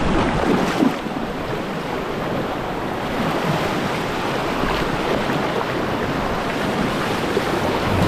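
River rapids rushing and splashing close to the microphone, a steady, loud wash of whitewater.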